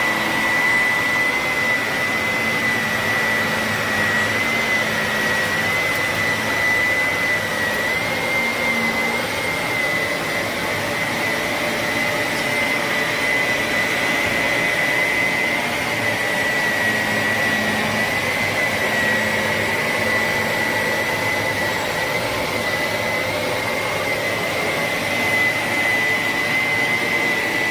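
Shark Navigator NV360 upright vacuum running steadily: a loud rush of air with a steady high whine over it, cutting off abruptly at the very end.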